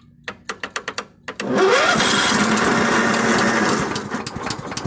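A run of sharp clicks, then about a second and a half in the Timberking 1220 sawmill's engine fires up, rising quickly in pitch and settling into a loud steady run. It is the engine's first start after sitting for ten years.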